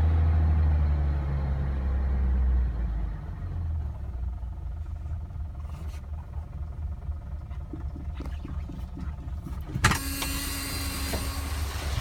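1974 BMW 2.0 CS engine running at a fast idle just after a cold start, then settling about three seconds in to a quieter, lumpier idle. Near the end a sharp click is followed by a steady hiss.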